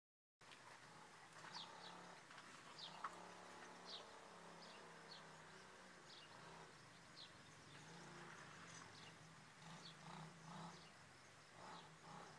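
Faint outdoor ambience in which a bird chirps repeatedly, short high notes about once a second, over a low steady hum; it begins after a brief moment of silence.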